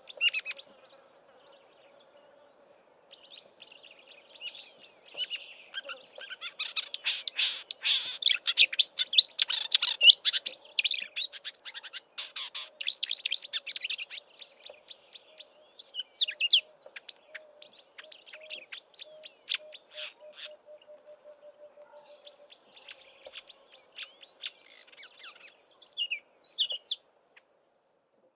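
Marsh warbler singing its fast, chattering song of mimicked calls of other birds. A dense run of rapid notes lasts several seconds, then gives way to scattered single calls that stop near the end. A faint steady drone sits underneath.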